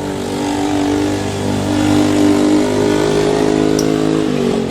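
A vehicle engine running steadily, getting louder about two seconds in, then dropping in pitch near the end.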